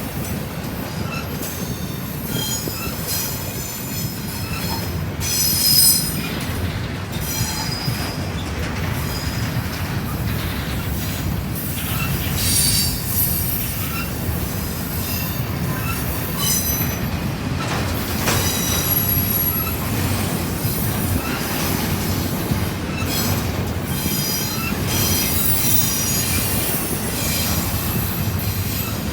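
Intermodal freight train cars rolling past in a steady low rumble, with high-pitched wheel squeal that comes and goes.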